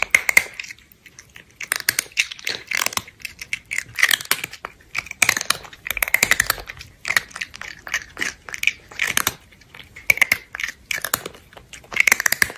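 Eating sounds: irregular crunching and chewing, many short crackly bites in quick clusters, like fries and burgers being munched.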